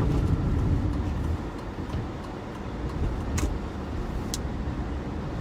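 Cabin noise of a four-wheel-drive vehicle slowing to a stop on snow-covered road: a low rumble of tyres and drivetrain that eases after about a second and a half, then two short clicks.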